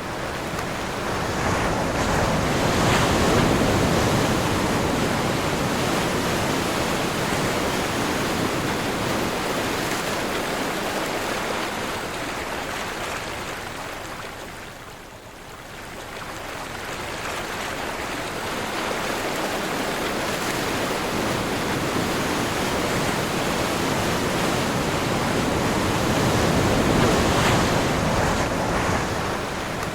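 Sea surf breaking and washing in strong wind: a steady rushing that swells, sinks to a brief lull about halfway, then builds again.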